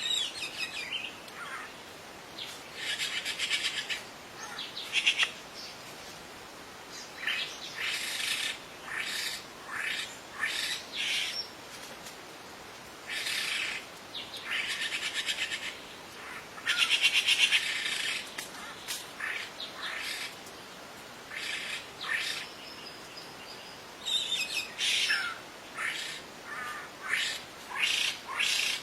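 Wild songbirds chirping and singing in short trilled phrases, about one every second or two. The loudest phrase comes about seventeen seconds in.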